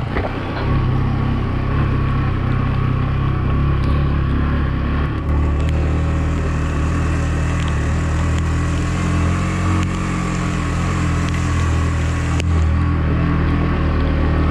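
Yamaha MT-15's single-cylinder engine running steadily under way, with its pitch shifting a little near the end.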